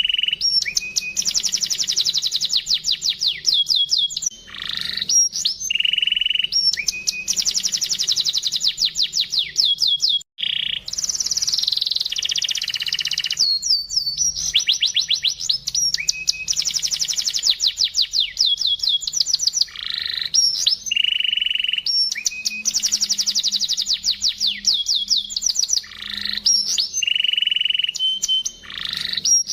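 Domestic canary singing a long, unbroken song in a clear, crystal-bright tone: fast trills of rapidly repeated high notes alternate with held whistled notes, with one brief pause about ten seconds in.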